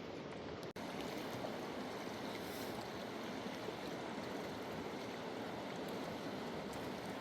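A fast-flowing river rushing steadily, broken by a split-second gap a little under a second in.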